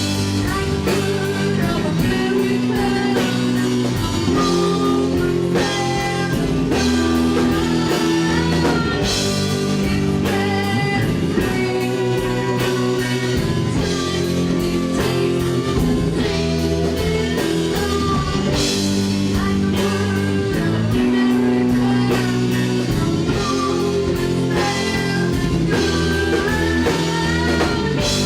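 Rock band playing an instrumental passage: guitar over held bass notes and a drum kit with cymbal crashes.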